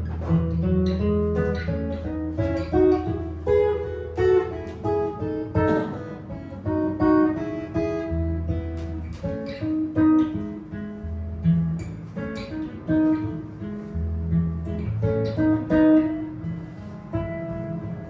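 Improvised jazz guitar: a line of single plucked notes with chords, over low bass notes that come and go.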